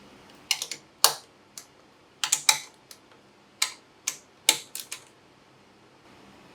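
A run of sharp, irregular clicks and taps, some in quick clusters, from tools and engine parts being handled during engine assembly work.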